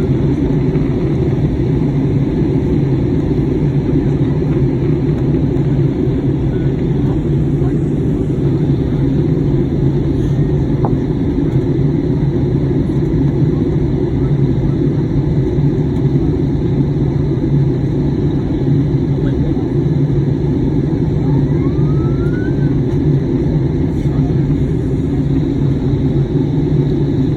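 Steady cabin noise inside an Airbus A320neo in flight: the even rumble of its engines and airflow along the fuselage, strongest in the low range, with no change through the stretch.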